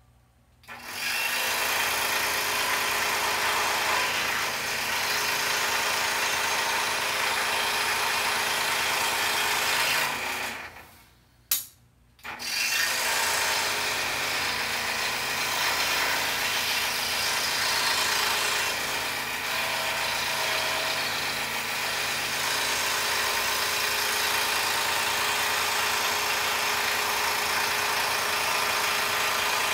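Scroll saw running as it cuts through a 1-inch poplar board, a steady even sound. It starts about half a second in, stops for about two seconds about ten seconds in with a single click in the gap, then starts again and runs on.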